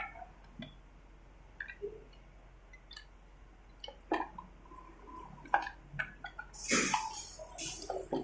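Scattered light clinks and knocks of metal motorcycle engine parts being handled in a basin of soaking solution, with a short rushing, splash-like noise about two-thirds of the way in.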